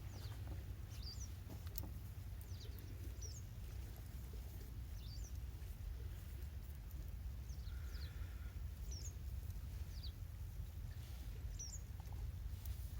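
A small bird calling outdoors: short, high, falling chirps, often two in quick succession, repeated about every one to two seconds over a steady low rumble.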